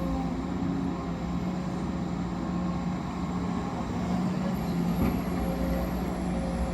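Heavy mining machinery running steadily, a constant low engine hum with no breaks.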